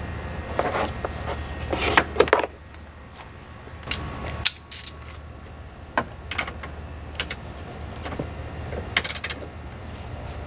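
Scattered clicks and knocks of hands handling tools and parts, with a cluster of clatter in the first couple of seconds and single clicks after, over a steady low hum.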